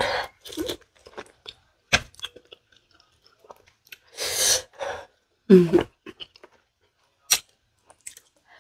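Close-miked eating: biting and chewing pieces of santol fruit, with sharp crunches and wet mouth clicks. There is a short breathy rush of air about four seconds in and a brief low voiced sound falling in pitch a second later.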